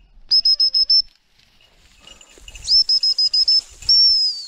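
A songbird singing: two quick runs of high, evenly spaced pips, then a longer note that slides down in pitch near the end.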